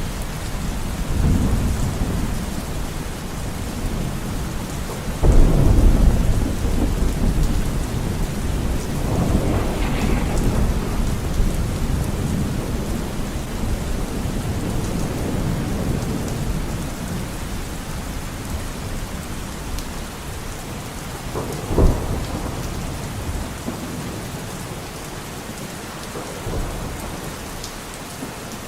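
Steady heavy rain falling on forest foliage, with thunder rumbling through it: a loud roll about five seconds in, another a few seconds later, and a sharp crack of thunder past the twenty-second mark.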